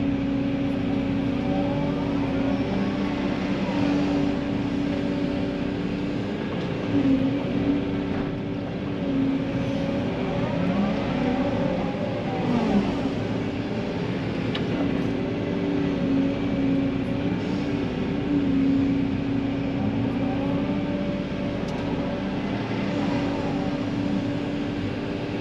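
Tracked excavator's diesel engine running steadily under work. Its note dips and rises several times, with whining glides, as the digger loads and moves heavy wet sand.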